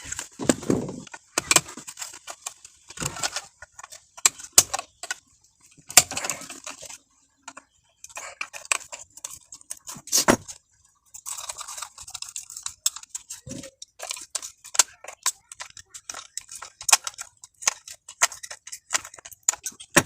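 Irregular clicks, taps and light metallic clinks from tools and small parts being handled on a workbench, with no steady tone.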